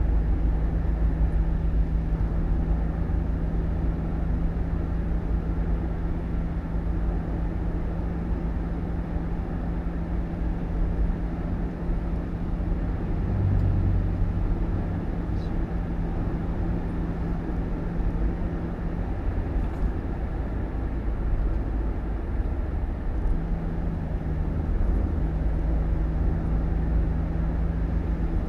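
A vehicle's engine running, a steady low rumble with a hum that fades out for a few seconds past the middle and then returns.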